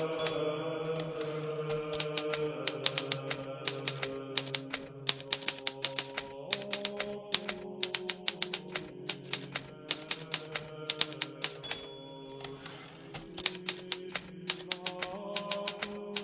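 Hermes Baby portable typewriter being typed on: a fast, uneven run of key strikes, several a second, with a short ring twice, near the start and about two-thirds through, and a brief pause in the keystrokes just after the second.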